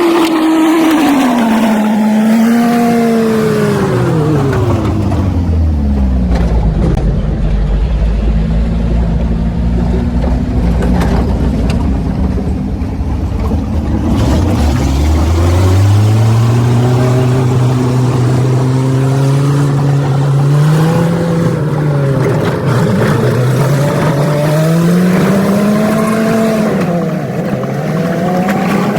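Old truck's engine running under way: its pitch falls to a low, slow idle-like note for several seconds, then climbs again, dropping back briefly twice as it revs up.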